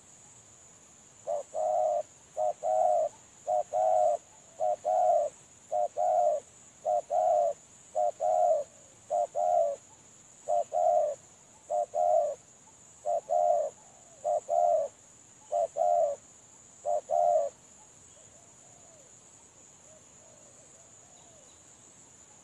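Spotted dove (tekukur) cooing in a quick run of about fourteen short two-note coos, roughly one a second, which stop about three-quarters of the way through. A steady high insect drone runs underneath.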